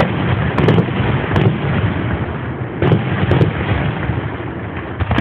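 Fireworks going off: several sharp bangs, loudest about a second in and again around three seconds, over a constant noisy rumble.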